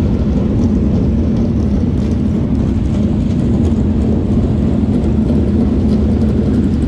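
Dirt-track race car engines running on the track, a loud steady drone with no breaks.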